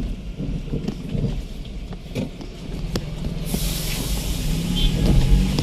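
Road vehicle noise: a low engine rumble with scattered knocks and rattles. About three and a half seconds in, a loud hissing rush comes in, and near the end the engine note rises.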